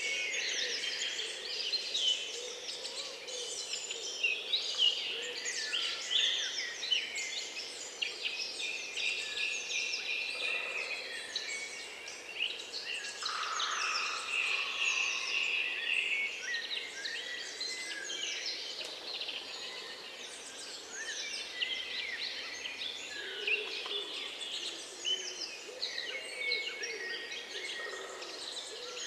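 Many songbirds singing and chirping at once: a dense, overlapping chorus of short, quick notes and whistles that never lets up.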